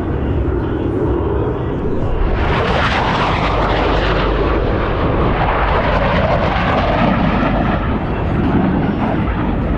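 Twin-engine F/A-18 Super Hornet jet noise: a low rumble, then about two seconds in the sound swells into a loud, hissing jet roar of a fly-past and stays loud.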